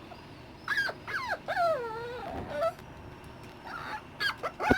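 Dachshund puppy whimpering: a few drawn-out whines falling in pitch, then short sharp yips near the end.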